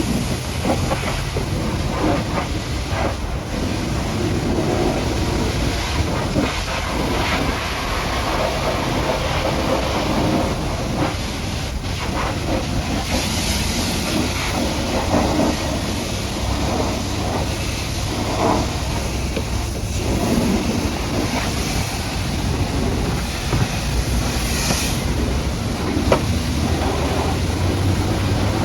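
High-pressure washer jet spraying thick mud off a dump truck: a steady, dense hiss and spatter with a constant low hum underneath.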